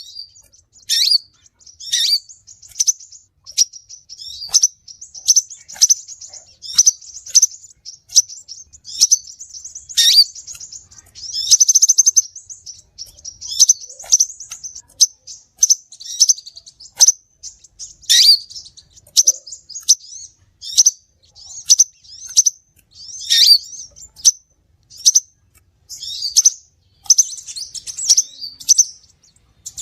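Crimson sunbird (sepah raja) calling: sharp, high-pitched chirps about one or two a second, broken by longer twittering runs, played as a bird-trapping lure call.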